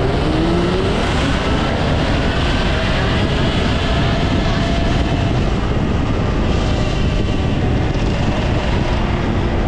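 Steady wind noise on the microphone of a camera carried on a moving off-road motorbike, with a faint motor tone that rises in pitch in the first second.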